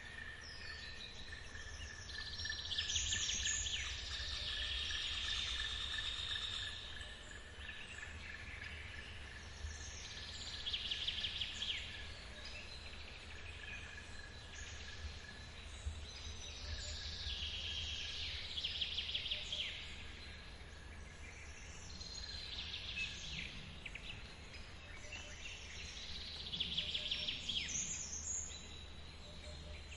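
Forest ambience: high, rapidly trilling calls repeat in phrases of one to two seconds, about five times, over a thin steady insect drone that fades about halfway through. A low steady rumble of water lies underneath.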